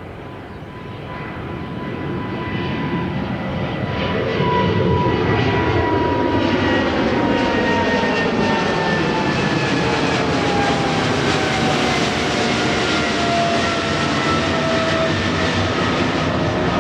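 Jet airliner's engines at takeoff power, growing louder over the first few seconds and then holding a loud roar, with a whine that falls steadily in pitch as the aircraft goes past.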